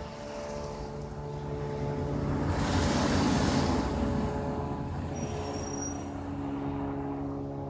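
Cessna light aircraft's piston engine and propeller droning overhead, the engine revved up, swelling to its loudest about three seconds in and then easing back.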